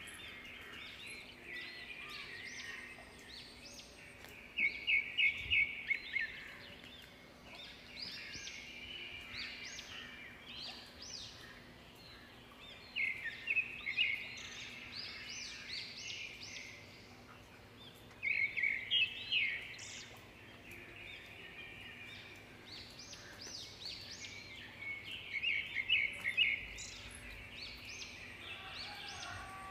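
Birds chirping and singing throughout, with a louder burst of quick repeated notes, about four a second, coming four times.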